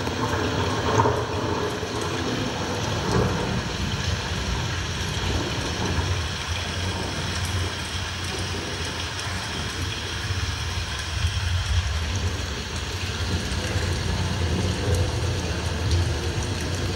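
Recorded sound of steady heavy rain, an even hiss with a constant low rumble beneath it, played as the soundtrack for a rain-themed dance number.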